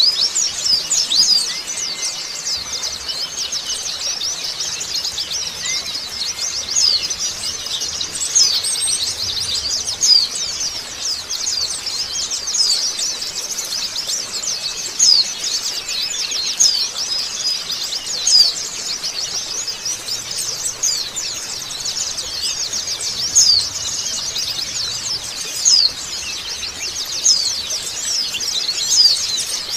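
A flock of white-eyes (pleci) chirping together in a dense, continuous chatter of short, high, rapid notes. It is the busy group chorus played as a lure to set caged white-eyes singing.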